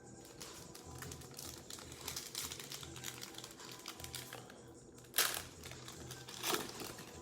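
Plastic trading-card pack wrappers crinkling and being torn open, with many small crackles and two louder rips near the end. Faint background music underneath.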